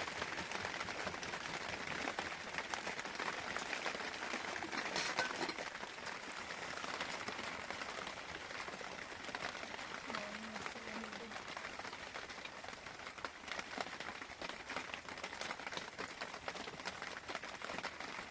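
Rain pattering steadily as a dense crackle of many small drops, with no single louder event.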